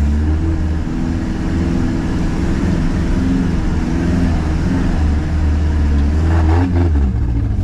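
Kia Sportage diesel engine running while driving off-road, heard from inside the cabin, its revs rising and falling and then dropping about six and a half seconds in.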